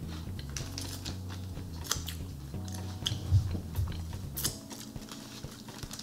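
Close chewing and crunching of a taiyaki, a fish-shaped wafer filled with aerated chocolate, with crisp crackles that are loudest a little past the middle. Soft background music holds steady chords under it and stops about four and a half seconds in.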